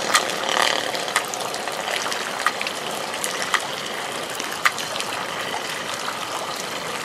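Steady hiss of falling rain, with a few sharp clicks scattered through it.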